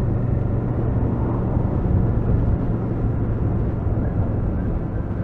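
Kawasaki VN800 Drifter's 805 cc V-twin engine running steadily, a constant low engine note over a dense low rumble.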